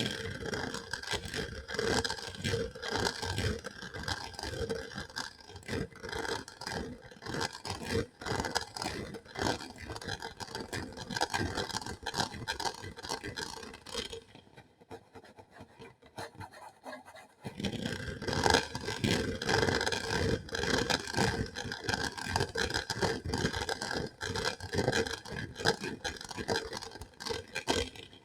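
Close-miked ASMR scratching and scraping: a fast, uneven run of strokes against a surface. It drops away for a few seconds near the middle, then starts again.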